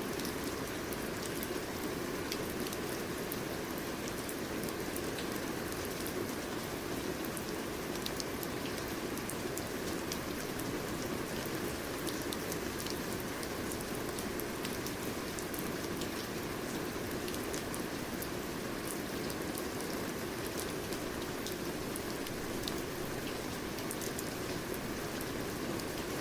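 Steady rain falling, with many individual drops pattering on a surface over a constant wash of rain noise.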